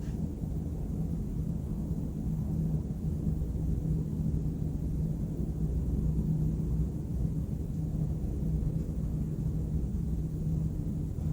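Night-time city noise: a steady low rumble of distant traffic with a constant low hum running through it.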